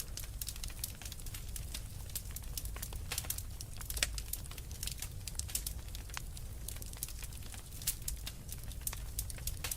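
Wood fire crackling in a fireplace: irregular sharp snaps and pops over a low steady rumble, with one louder pop about four seconds in.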